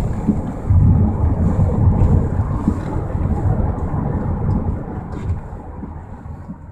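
Low, uneven rumble of a car riding along, with wind on the microphone, fading away over the last couple of seconds.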